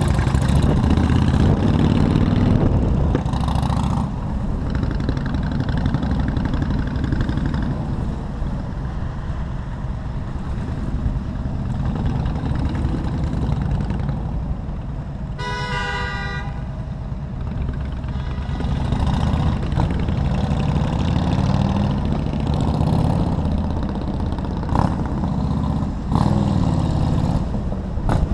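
Motorcycle engine running with road and wind noise while riding in city traffic. About halfway through, a vehicle horn honks once for about a second.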